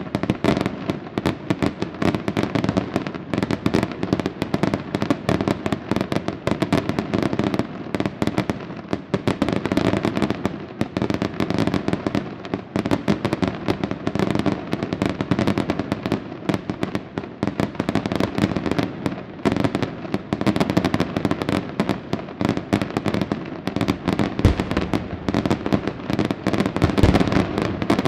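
Aerial fireworks display: a dense, continuous barrage of shell bursts and crackle, with a few heavier booms near the end.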